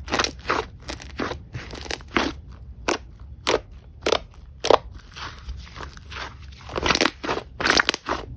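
Hands pressing and squishing slime, giving a string of crackling, popping squishes about twice a second, with a short pause in the middle.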